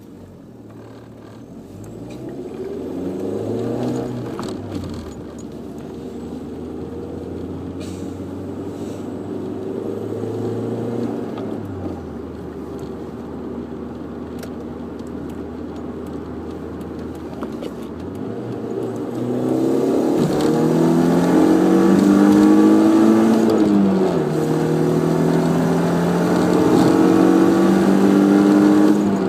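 Audi TT 1.8-litre turbocharged four-cylinder engine running, revved up and let back down several times, holding steady revs in between. In the last third it climbs to its highest, loudest revs, dips slightly and holds there.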